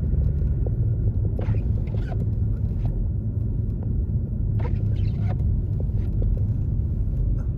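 Steady low rumble of a 2021 Toyota Tacoma driving, heard from inside the cab: engine and road noise.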